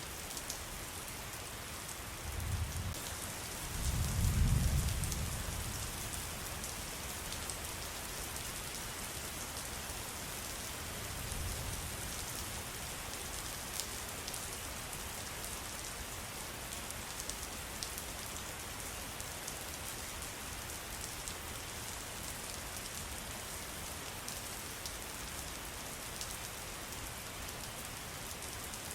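Steady patter of falling water, dense with fine drips and splashes. A low rumble swells twice in the first few seconds, the second time loudest, and once more faintly about twelve seconds in.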